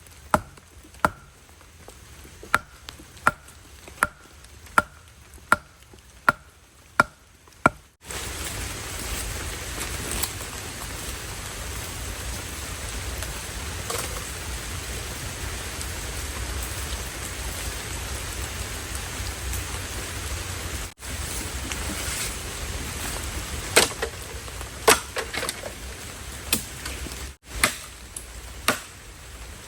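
Steady chopping strokes, a little over one a second, each with a short ring. After a sudden change about 8 seconds in, heavy rain falls steadily, and near the end a few louder, irregular chops sound over the rain.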